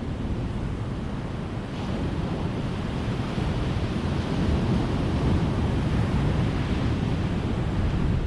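Ocean surf washing onto a beach: a steady rush of waves that swells louder from about two seconds in.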